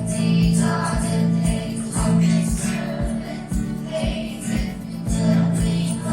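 Children's choir singing a praise and worship song over accompaniment with a steady beat, about two beats a second.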